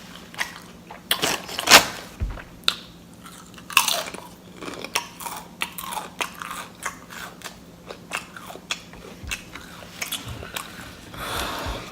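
Close-up eating sounds: a sandwich being bitten and chewed, with irregular crunches and sharp mouth clicks, the loudest crunch about two seconds in.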